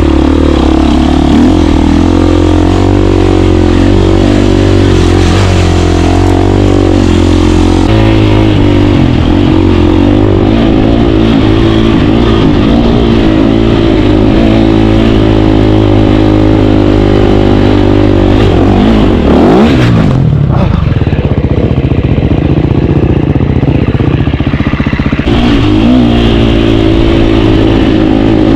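KTM 350 dirt bike's single-cylinder four-stroke engine running loudly while riding, its pitch dropping and then climbing again about two-thirds of the way through.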